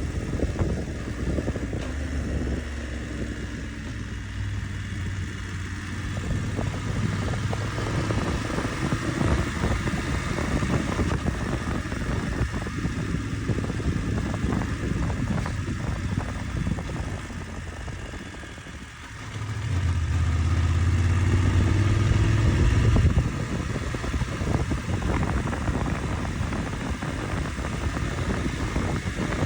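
Motorcycle engine running under way, with wind rushing past. The engine note holds steady for long stretches, dips away about two-thirds of the way through, then comes back louder for a few seconds before settling.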